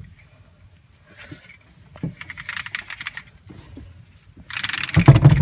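Handling noise: faint clicks and rustling, then a loud clattering, scraping stretch near the end as the heavy old battery just freed from its compartment is moved about.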